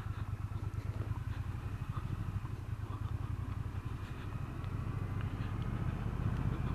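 Motorcycle running at low speed, a steady low rumble with a faint high whine above it, growing a little louder in the second half.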